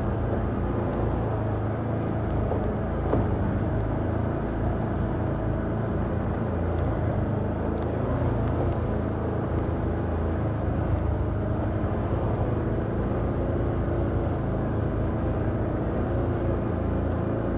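Can-Am Outlander ATV engine running at a steady, even pace under way, with no change in speed.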